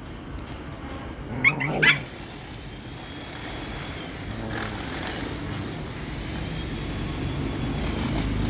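Husky giving one short, wavering high whine about one and a half seconds in. A low rumble then rises steadily and grows louder toward the end.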